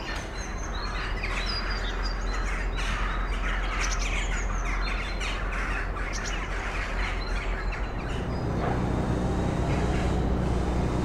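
Small birds chirping and twittering in quick, busy calls. About eight seconds in, the low hum of a motor vehicle's engine comes in underneath.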